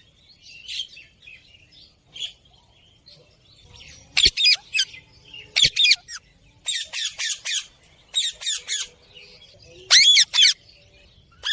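A bird calling in quick runs of short, harsh squawks, three or four at a time, starting about four seconds in.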